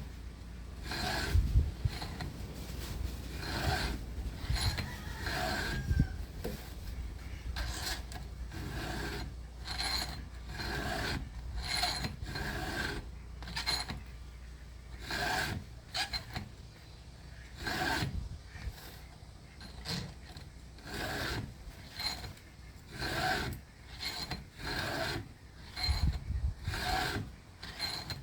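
Round chainsaw file in a steel file guide being stroked across the cutter teeth of a Husqvarna Rancher's saw chain, a rasping scrape on each stroke, about one stroke a second.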